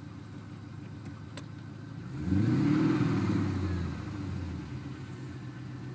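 GM LS1 V8 engine idling, then blipped once about two seconds in: the revs climb quickly and settle back to idle over the next two seconds or so.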